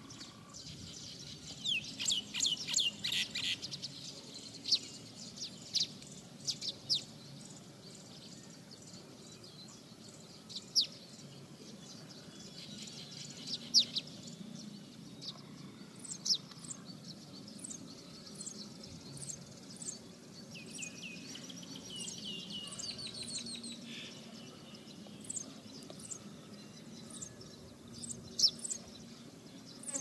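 Small birds chirping: quick, high, falling chirps, thickest about two seconds in and then scattered, with a short run of stepping-down notes about two-thirds of the way through.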